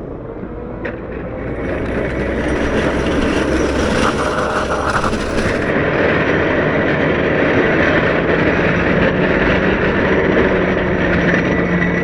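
CAT 908 compact wheel loader's diesel engine running under load while its snow pusher shoves snow, with a continuous rumble and scraping. A brighter hissing scrape comes in near two seconds in and stops abruptly about six seconds in.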